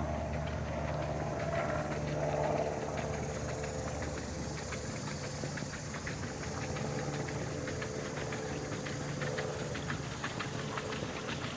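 A boat's engine running steadily with a low hum, with many small irregular ticks over it from about four seconds in.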